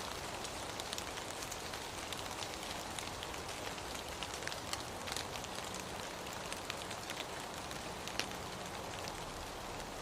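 Steady rain falling: an even hiss with scattered sharp ticks of individual drops striking close by.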